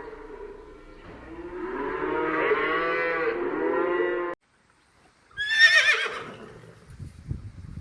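A cow mooing, one long pitched call that cuts off abruptly about four seconds in. After a second of silence a horse whinnies, a high call falling in pitch, and a few low knocks follow near the end.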